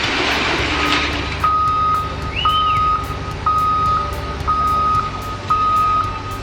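Reversing alarm of heavy machinery beeping about once a second, each beep a steady single tone, over the low running of a diesel engine. The beeping starts about a second and a half in, after a burst of dense rumbling noise.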